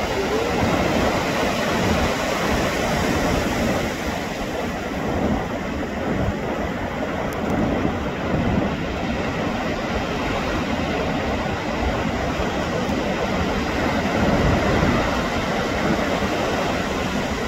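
Ocean surf and wind: a steady rushing noise with a rumbling low end that swells and eases.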